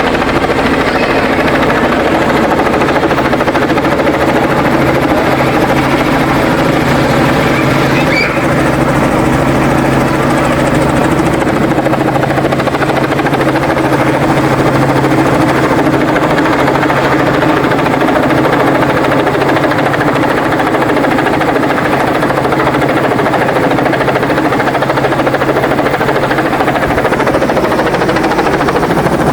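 Helicopter flying overhead, a loud steady rotor and engine drone. A brief high chirp about eight seconds in.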